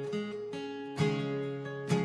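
Music: acoustic guitar strumming chords, one strum about every second.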